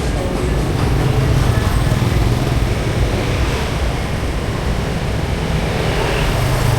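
Steady street traffic with motorbikes and cars going by: a continuous low rumble of engines and tyres.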